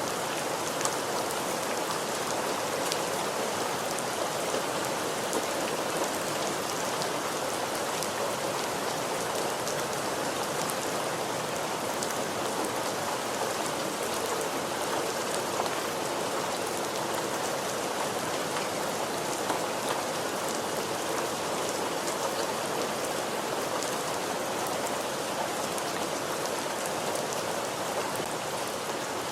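Steady rain falling, an even hiss of rainfall with many small drop ticks scattered through it.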